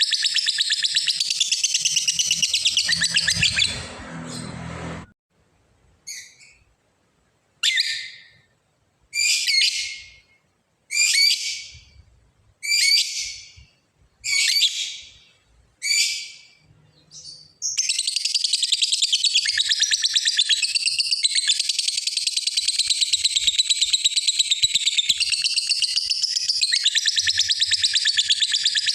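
Lovebird singing its long 'ngekek' song: a fast, high, unbroken chatter, which breaks off after about four seconds into a string of separate calls that each fall in pitch, under two seconds apart. The unbroken chatter starts again a little over halfway through and runs on.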